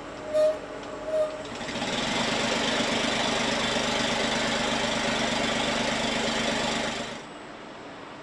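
Two short beeps, then a machine runs steadily for about five seconds and stops abruptly, a powered operation on an engine production line.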